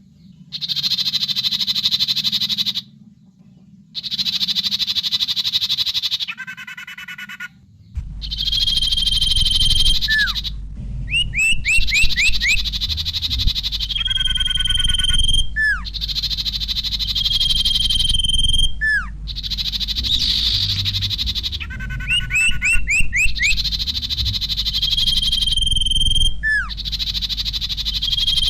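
Common iora singing: fast buzzy trills in phrases a couple of seconds long, then long level whistles mixed with quick upward slurred notes and more trills. A low steady hum comes in underneath about eight seconds in.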